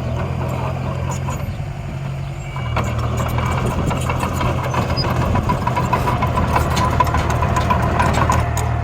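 Vehicle engine sound, a steady low idle with a thin whine above it. It picks up and gets busier and a little louder about three seconds in.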